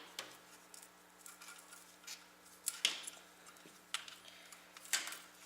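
Light handling noise of cables being worked against a computer case: scattered clicks, rustles and small taps, the sharpest about three and five seconds in.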